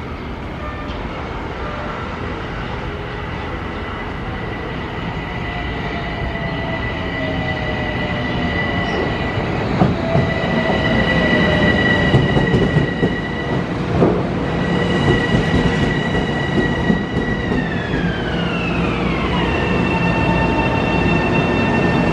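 Metro-North M7A electric multiple unit pulling into the station, its wheel and rail rumble growing louder with a few knocks as it passes. A steady high whine runs throughout and glides down in pitch about eighteen seconds in as the train slows.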